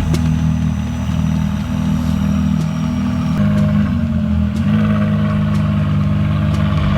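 Car engine running at a steady idle, its pitch shifting slightly about three and a half seconds in.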